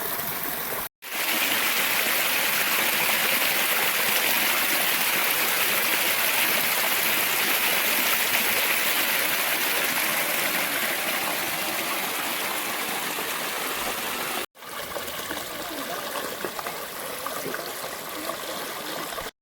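A rain-swollen creek, with water running in a steady, noisy flow. The sound drops out briefly twice, about a second in and again near fourteen seconds. It is loudest in the long middle stretch between those breaks.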